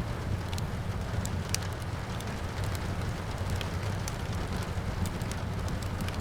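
Wood fire crackling, with sharp pops scattered irregularly over a steady rushing of rain and a low rumble.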